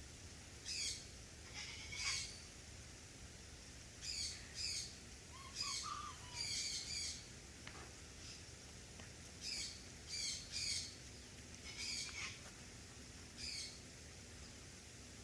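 A bird calling repeatedly with short, high chirps, often in quick pairs, over a steady background hiss.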